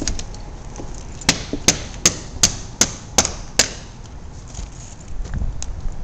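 Hammer blows: seven sharp strikes in quick, even succession, about two and a half a second.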